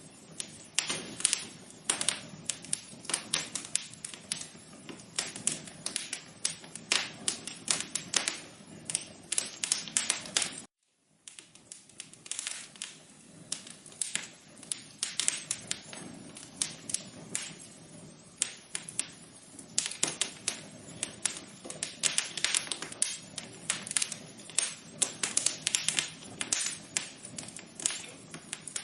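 Wood fire crackling in a fireplace: a dense, irregular run of sharp pops and snaps over a low hiss. The sound cuts out completely for about half a second near the middle, then the crackling resumes.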